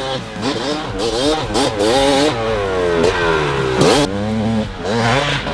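1996 Kawasaki KX250's single-cylinder two-stroke engine being ridden hard. It revs up and drops back repeatedly as the throttle is worked and the bike shifts.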